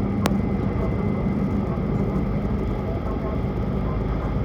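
Steady running noise of a Tohoku Shinkansen Hayabusa train at speed, heard inside the passenger cabin: a continuous low rumble with a faint hum that fades out about three seconds in. There is one sharp click just after the start.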